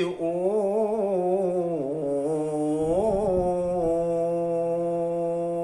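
A man's voice reciting the Quran in a melodic, chanted style, the line wavering and ornamented, then settling into one long held note from about four seconds in.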